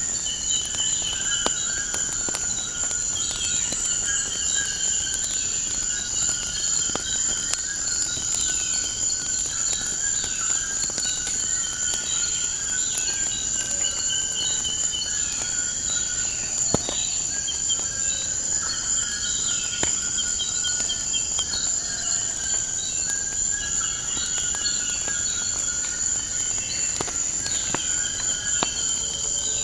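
Wood fire crackling with scattered sharp pops, under a steady high-pitched insect trill and birds chirping and calling over and over.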